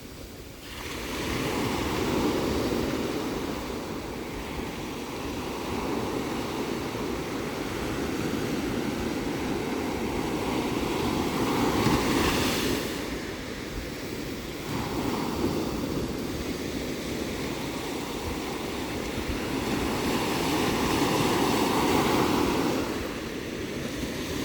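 Ocean surf: waves breaking and washing in, rising and falling in slow swells, with one louder, hissier break about twelve seconds in and another swell near the end.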